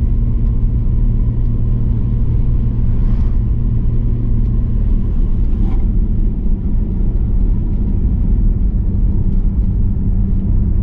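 BMW E34 525i's straight-six engine running at steady cruising revs, with tyre and road noise, heard from inside the car's cabin.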